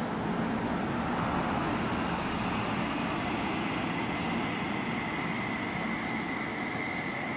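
Seibu 30000-series electric train pulling out of the station and gathering speed: steady running noise with a steady high whine that grows stronger in the second half.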